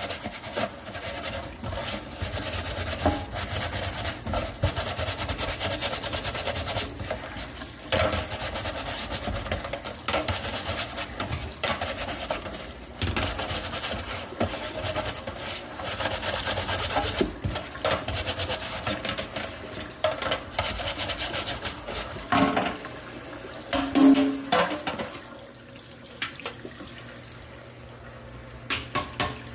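Microwave grease filter being washed in a sink: water hissing and splashing in surges, with brief clattering knocks about two-thirds of the way through.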